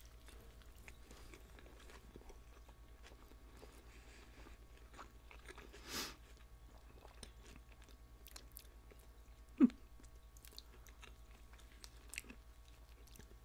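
Close-miked chewing and biting of fried chicken sandwiches: soft, wet mouth sounds and small crunches with faint clicks, and one short, much louder sound about two-thirds of the way through.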